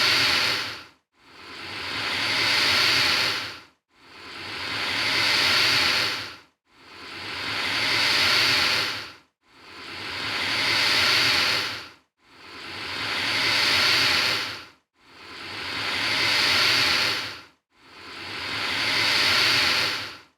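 Alligator hissing over and over at an even pace, about one hiss every three seconds. Each hiss is a loud, airy rush that swells up and then breaks off abruptly into a brief silence.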